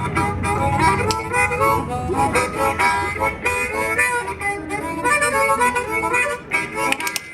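Harmonica playing a lively folk-blues tune over a low accompaniment, with a few sharp clacks near the end.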